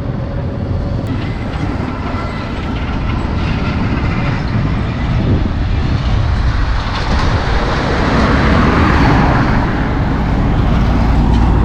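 Road traffic noise: vehicles passing with a steady low rumble, growing louder over the last few seconds.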